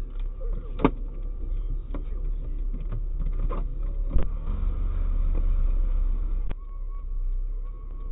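Car on the move, heard from inside: a steady low road and engine rumble, with a few sharp knocks, the loudest about a second in.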